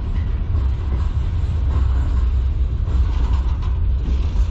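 Freight cars of a manifest train rolling past: a steady low rumble of steel wheels on rail.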